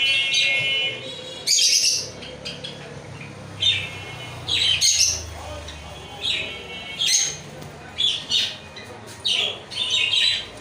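Lovebirds calling: short, shrill, harsh chirps and squawks repeated every second or so.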